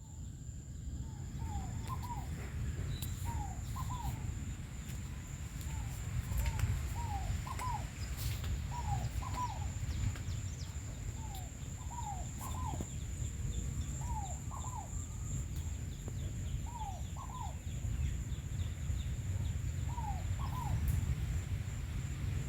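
A bird calling over and over, a pair of short falling notes about every second and a half, over a steady low rumble of wind on the microphone and a thin, steady high-pitched tone.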